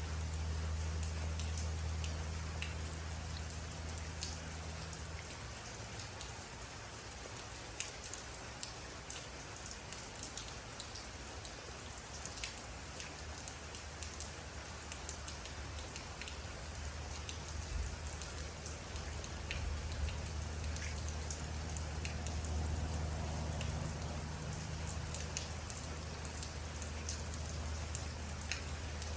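Steady rain, with individual drops striking a surface as many sharp ticks over the even hiss. Under it runs a low steady hum that fades out about five seconds in and comes back a little past halfway.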